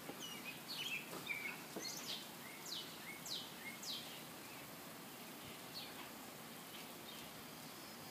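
A small songbird calling, a run of quick high chirps that slur downward about twice a second, thinning out after about four seconds, over a faint steady outdoor hiss.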